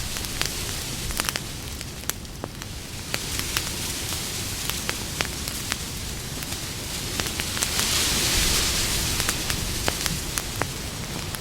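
Campfire burning: a steady hiss of flames scattered with frequent sharp crackles and pops. The hiss swells briefly about eight seconds in.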